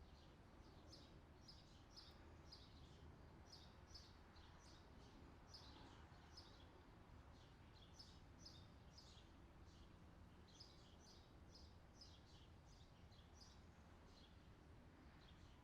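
Faint songbirds chirping: short high notes repeated in quick series, one to two a second, with brief pauses, over a steady low background hiss.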